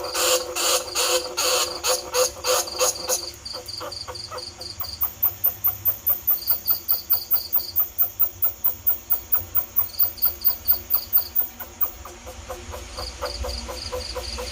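Greater bandicoot rat squeaking calls, played as a lure: rapid runs of short squeaks, about five a second and loudest in the middle, with small clusters of thin high chirps between them.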